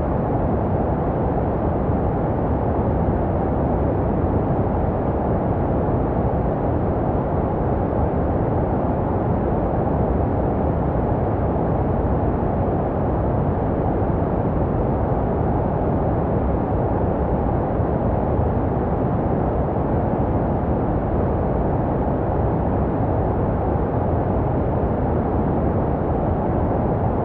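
Continuous baby-sleep white noise: a steady, deep, muffled hiss weighted toward the low end with little treble, and no change in level. It is shaped to resemble the sounds a baby hears in the womb.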